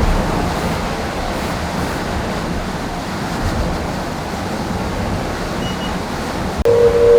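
Onboard noise of an IMOCA 60 racing yacht sailing fast: a steady rush of water along the hull and wind, with a low rumble. Near the end a click is followed by a sudden loud steady hum.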